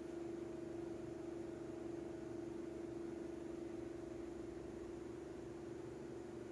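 Steady machine hum: one held tone with a fainter higher overtone over a low rumble, unchanging throughout.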